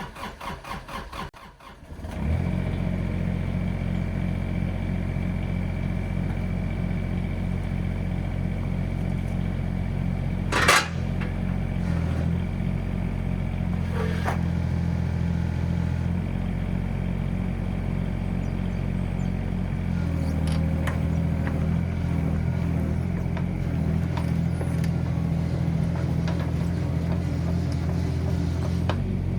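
The Komatsu PC16 mini excavator's diesel engine cranks on the starter, catches about two seconds in, and then runs steadily. A single sharp clank comes near the middle, and the engine note rises slightly about two-thirds of the way through.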